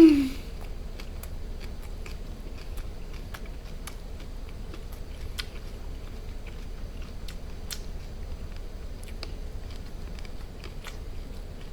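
A man chewing a mouthful of grilled duck wrapped in pickled radish with chives: a string of small crunches and wet mouth clicks. It opens with the end of a loud 'mmm' of enjoyment that rises and falls in pitch.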